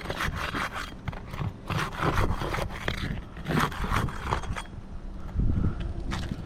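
Scraping and rustling of roof shingles being worked loose, in irregular strokes.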